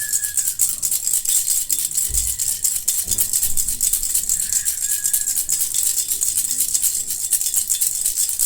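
Bee-shaped baby rattle shaken steadily, a dense, rapid rattling that goes on without a break. Two low bumps come about two and three seconds in.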